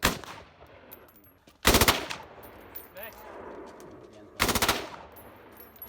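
Machine gun firing: a single shot at the start, then two short bursts of automatic fire, about a second and a half and four and a half seconds in.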